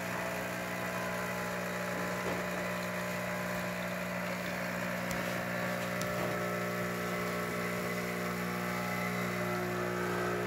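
Gaggia TS espresso machine's pump buzzing steadily while it pulls an espresso shot.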